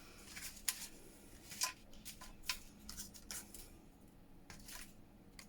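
Paper pieces being handled and shuffled on a craft table: scattered light rustles and soft taps at irregular intervals.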